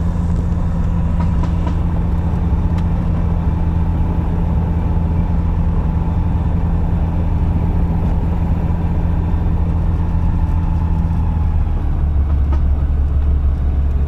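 Single-engine light aeroplane's piston engine running steadily, its note shifting lower about twelve seconds in.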